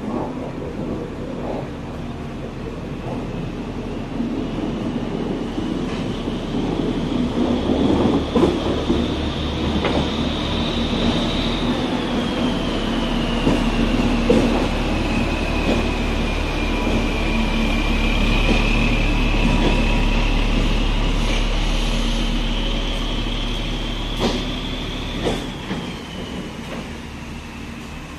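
Indian Railways local multiple-unit train passing close by: a steady low rumble, a scattering of sharp clacks from the wheels over rail joints and points, and a high whine that climbs, dips and climbs again. The rumble is loudest past the middle, then fades near the end.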